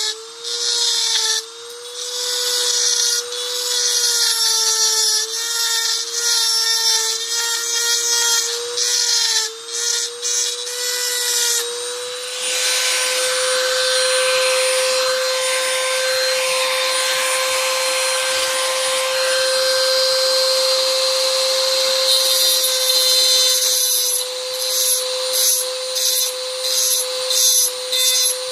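High-speed rotary tool with a cutting bit grinding into a die-cast zinc-alloy toy car body. A steady high motor whine sags and wavers in pitch as the bit bites, with harsh scraping during short stop-start passes. Partway through it cuts continuously for about ten seconds, then goes back to short passes near the end.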